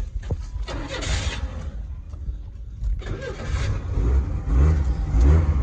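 1996 Chevy S10 pickup's engine being started and running, with a short burst about a second in and the low engine rumble swelling near the end.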